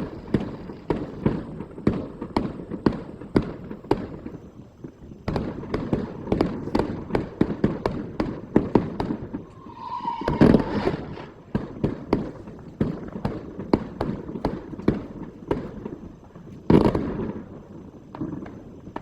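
Fireworks and firecrackers going off in a rapid, irregular string of bangs, with two heavier blasts about ten and seventeen seconds in. A brief pitched tone sounds just before the first heavy blast.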